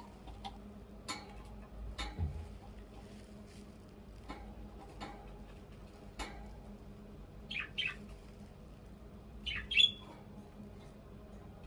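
Pet budgerigar giving two short chirps, then a louder squawk, amid scattered sharp clicks and taps.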